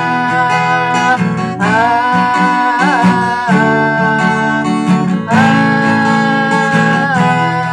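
Acoustic guitar, capo on the second fret, strumming the bridge chords G, Asus2 and Em. A voice holds long wordless notes over it, sliding into pitch about a second and a half in and again about five seconds in.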